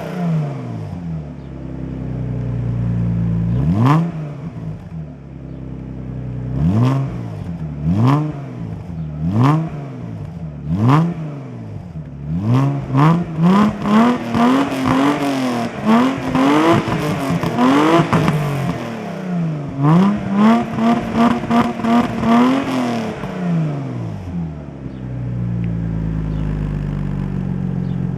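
Volkswagen Passat B5's 2.8-litre V6 through a custom exhaust, revved again and again in short blips that fall back each time, with a quick run of blips in the middle and one rev held for a few seconds, then settling to a steady idle near the end.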